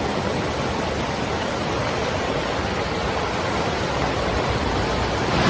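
A steady, even rush of water, like torrential rain or fast-flowing floodwater.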